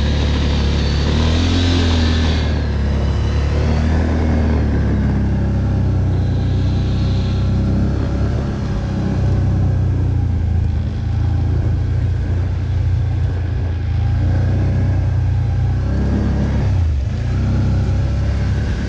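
ATV (quad bike) engine running under load, its revs rising and falling a little, with a brief dip and rise in pitch near the end.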